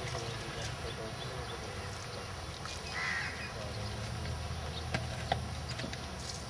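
A bird calls once, briefly, about three seconds in, over a steady low rumble; two sharp knocks follow about five seconds in.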